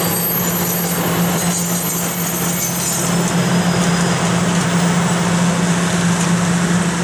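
Passenger railroad cars rolling past at close range: the steady rumble of wheels on the rails, with a constant low hum underneath.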